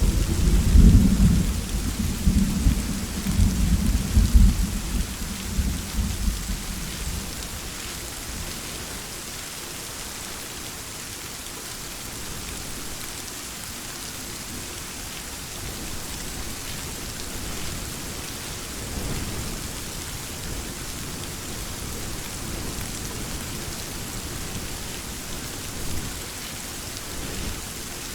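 Steady heavy rain with a loud thunderclap that breaks in suddenly and rolls for about seven seconds, fading away. Fainter rumbles of thunder follow later, over the continuing rain.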